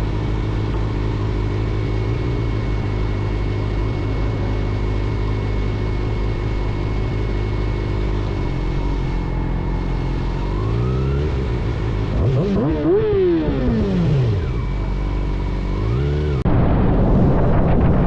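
Vehicle engine idling steadily, then revved up and back down a few times, the biggest rev about two-thirds of the way through. Near the end, a louder rush of wind noise cuts in suddenly.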